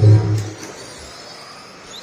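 Faint high whine of electric RC cars running on the track, drifting in pitch as they speed up and slow down, over steady hall noise. A low hum in the first half second cuts off, and there is a single short click about half a second in.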